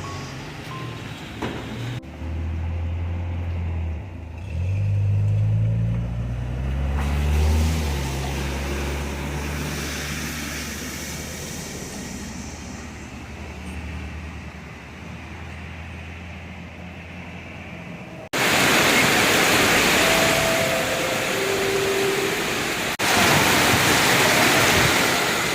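A motor vehicle's engine running, its low hum rising in pitch a few seconds in as it pulls away or passes. After an abrupt cut it gives way to a loud, steady hiss of rain.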